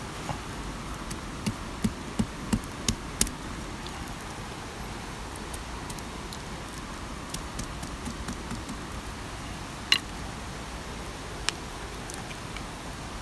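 A quick run of about six light taps or knocks, then two more single, sharper ones later, over a steady hiss.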